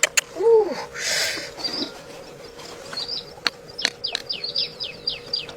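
Bird chirping: a quick run of short, high falling chirps in the second half, with a lower arching call about half a second in and a few sharp clicks.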